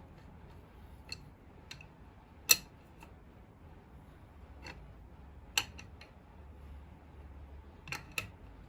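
Irregular sharp clicks and light clinks, about nine of them, from tools and small hard parts being handled and set down during the faucet repair. The loudest comes about two and a half seconds in, and two close together come near the end.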